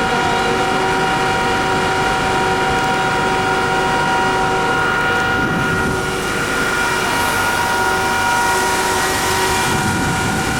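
MEMU electric multiple-unit train running, a steady multi-tone whine from its electric traction equipment over a loud rumble of wheels and rails. The whine holds an even pitch, so the train is running at a steady speed.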